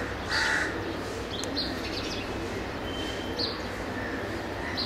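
Birds chirping, short high calls every second or so, over a steady low hum of city background noise.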